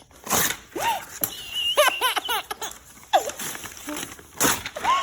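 A baby laughing in high-pitched bursts, with a quick run of giggles about two seconds in and another laugh near the end, and a few short sharp sounds between them.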